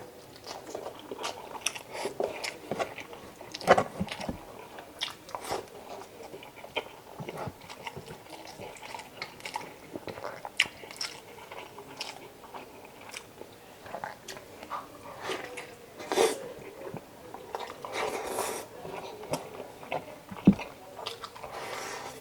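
Close-up eating sounds from a person biting and chewing chicken adobo: irregular wet mouth clicks and crunches, with a few sharper bites standing out.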